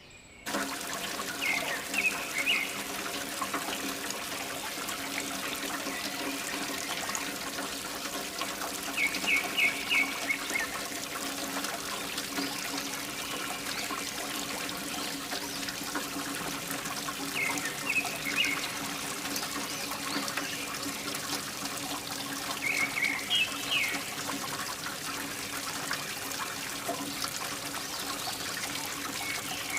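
A small water pump running with a steady hum while water pours and trickles from its outflow. Clusters of short high chirps recur every several seconds.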